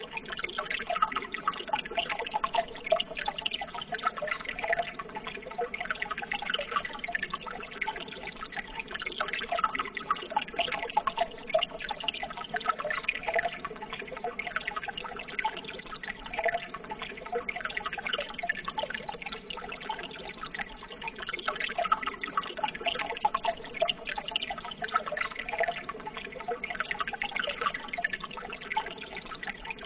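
Running water trickling and babbling steadily, with a dense patter of small splashes and drips and no pauses.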